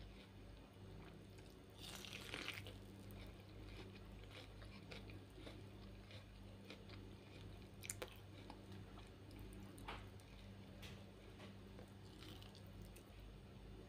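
Faint, close-up chewing and biting of boiled corn on the cob: soft wet mouth clicks and crunches of the kernels, with a louder patch about two seconds in and sharp clicks near eight and ten seconds.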